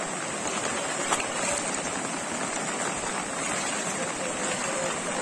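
Steady hiss of rain falling on a flooded street and its running floodwater, with one sharp click about a second in.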